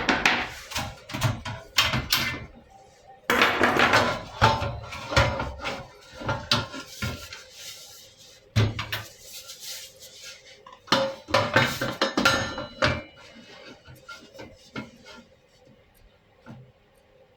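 Metal parts and hand tools clanking and rattling in irregular bursts as a mini bike is worked on. The clatter thins out to a few light knocks about thirteen seconds in.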